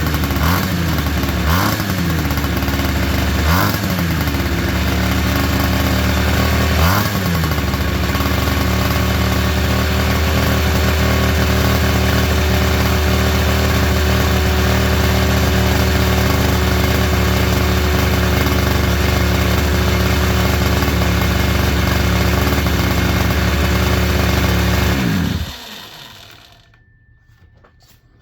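Mini quad engine running just after a cold start, blipped about four times in the first seven seconds, then idling steadily until it is shut off near the end.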